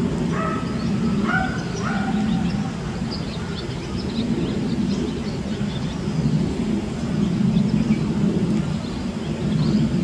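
Ashy minivet giving short, thin, high-pitched calls over a steady low rumble of background noise. A crow caws a few times in the first two seconds.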